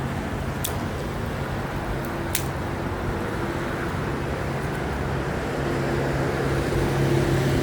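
Excavator's diesel engine running steadily, growing a little louder in the second half, with two short sharp clicks in the first few seconds.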